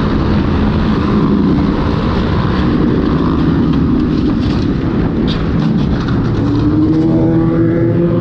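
A vehicle engine running under a steady haze of road and wind noise, its pitch climbing near the end as it speeds up.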